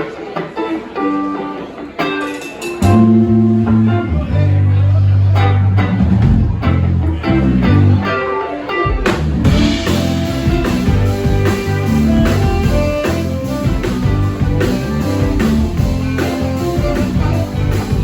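Live band playing instrumental blues-rock: electric guitar picking alone at first, then the bass comes in loud about three seconds in, and the drums with cymbals join about nine seconds in for the full band.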